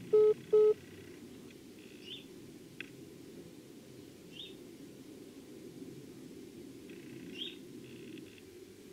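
Three short electronic beeps in quick succession at the start, then a low steady room hum with faint bird chirps every couple of seconds.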